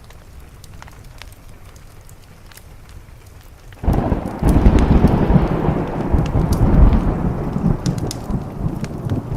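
A thunderclap breaks out suddenly about four seconds in and rolls on in a long low rumble that slowly fades, over steady rain on a window. Faint scattered crackles run through it.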